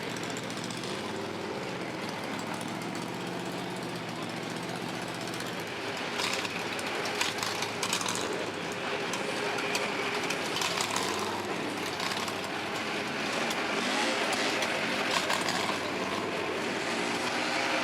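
A large truck engine idling steadily, with crowd noise and short clicks growing busier after about six seconds.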